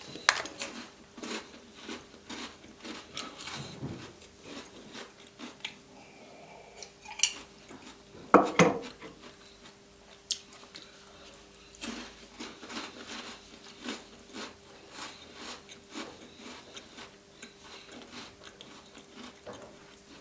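Scattered light clinks and taps of tableware during a meal of chocolate biscuits and hot chocolate, with one louder knock about eight seconds in. A faint steady hum runs underneath.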